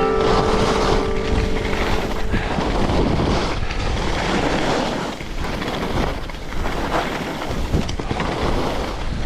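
Rushing, buffeting noise of wind on the microphone during fast movement, surging and easing irregularly.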